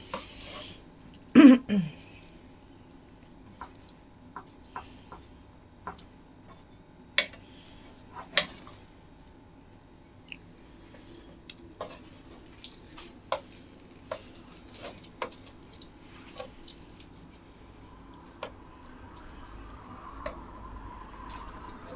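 Kitchen handling sounds: scattered light clicks and clatters of utensils and a foil-lined baking tray as pizza pinwheels are laid out. One louder sound comes about a second and a half in.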